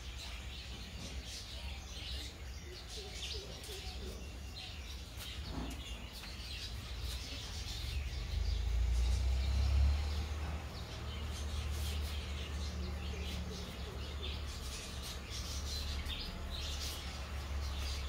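Small birds chirping in short, high notes scattered throughout, over a steady low rumble that swells for a couple of seconds near the middle.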